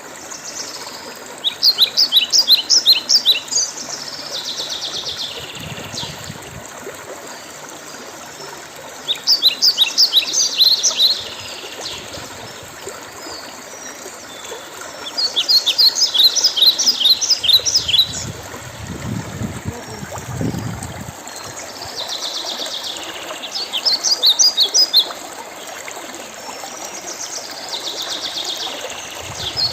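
Songbirds singing: a phrase of rapid, quick high notes lasting about two seconds, repeated every six to eight seconds over a steady background hiss. A brief low rumble comes about twenty seconds in.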